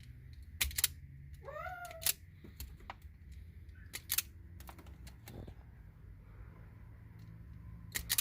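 Sharp clicks of a wire stripper biting and pulling insulation off car-stereo harness wires, in small clusters. A cat meows once, briefly, about a second and a half in.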